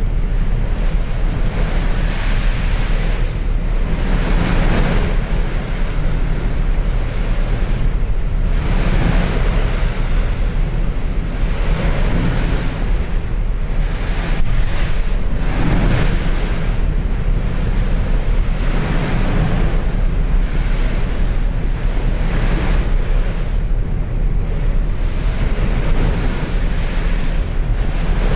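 Wind buffeting the microphone in uneven gusts over the steady rush of sea water past a moving ferry.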